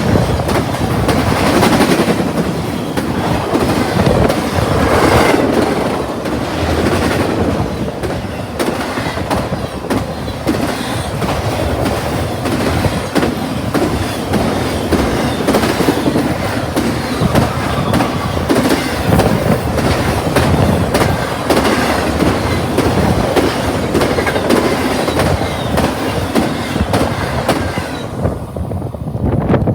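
Intermodal freight train cars rolling past: steady, loud wheel-on-rail noise with the clickety-clack of wheels over rail joints. The noise falls away quickly near the end.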